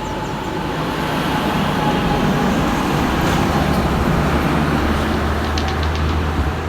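Diesel engine of a heavily loaded truck running low and steady as it crawls past, growing louder through the middle, with a few light clicks near the end.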